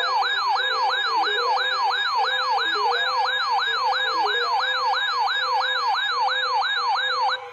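Electronic weather-alert siren: a loud tone sweeping rapidly downward over and over, several times a second, signalling that a severe weather warning has been received. It cuts off abruptly near the end.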